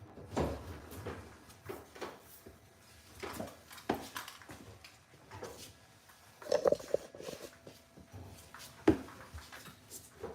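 Irregular knocks and clicks of parts and tools being handled, with a short cluster about six and a half seconds in and one sharp knock near the end.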